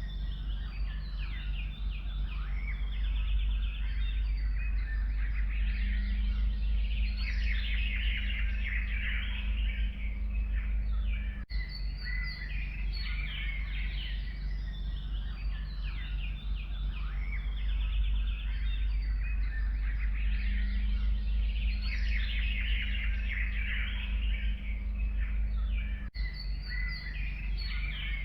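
Several forest songbirds chirping and trilling over a steady low rumble, the sound briefly dropping out twice.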